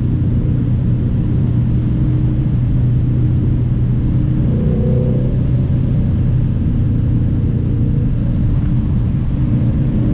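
A car being driven: a steady, low engine drone with road rumble, the engine pitch shifting slightly about halfway through.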